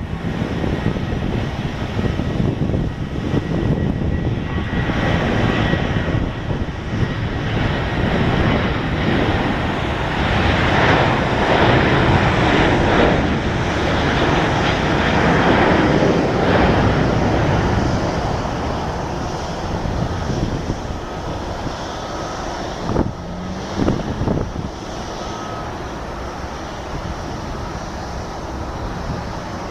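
Boeing 737-900ER's CFM56-7B turbofan engines at takeoff thrust, a loud jet roar with a faint steady whine. The roar swells to a peak around the middle and then slowly eases off as the jet draws away.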